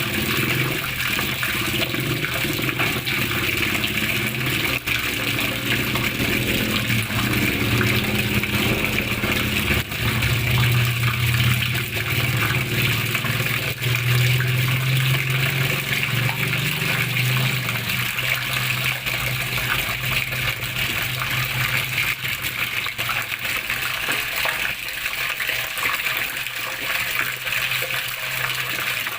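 Water flowing and splashing steadily, with a low rumble that grows stronger in the middle.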